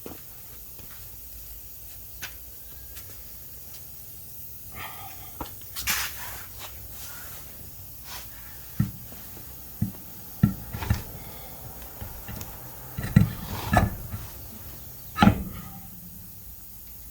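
Irregular knocks and clunks of tools and parts being handled while fitting a tire to the truck: about eight sharp thumps, some deep and some bright, spread over the middle of the stretch.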